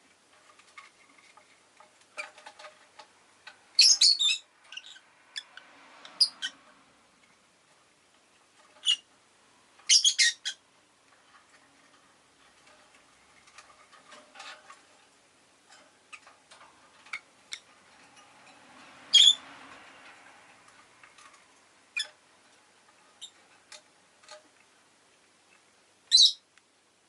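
Rosy-faced lovebird giving several short, sharp, high chirps spaced a few seconds apart, with soft clicks and taps in between.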